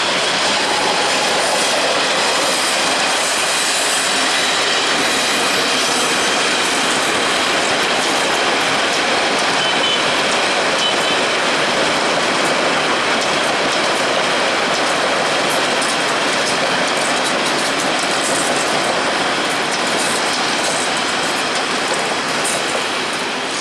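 Passenger coaches of an intercity express train rolling past: a steady rush of wheels on rails with many fine clicks over the rail joints.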